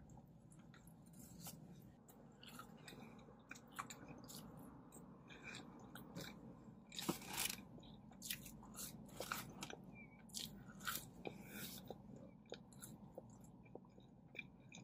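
A person biting into a burger and chewing, with soft, irregular crunching clicks; later chewing french fries.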